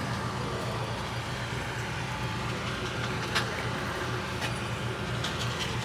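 A vehicle engine idling steadily with a low drone, and a few light clicks in the middle and near the end.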